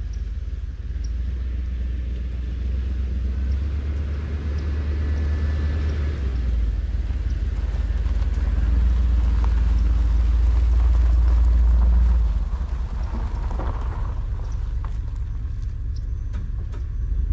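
A 1989 Chevy G20 van driving slowly, its engine and road noise making a steady low rumble that swells toward the middle and drops off sharply about three quarters of the way through.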